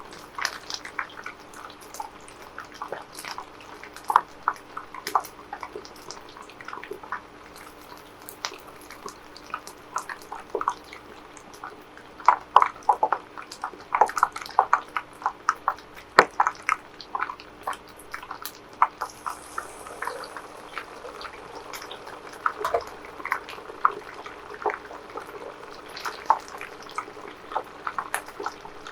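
Irregular wet crackling and small pops from chicken nuggets being made, scattered and uneven with a few louder pops, over a steady faint hum.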